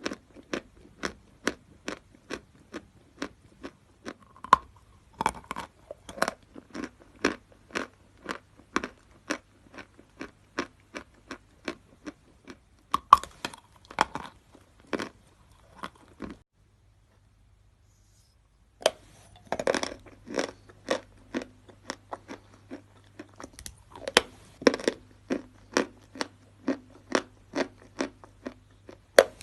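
A person biting and chewing natural chalk, crisp crunches about two a second, stopping for a couple of seconds midway before the crunching resumes.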